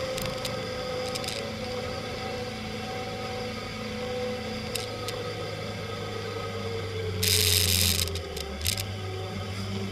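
Motorcycle engine running steadily at cruising speed, heard from a camera mounted on the bike, with wind noise on the microphone. About seven seconds in there is a loud rushing burst lasting under a second, and the engine note dips briefly just after it.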